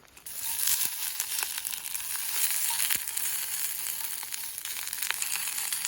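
Wiener sausages sizzling as they cook in hot fat: a steady hiss with scattered small spitting pops.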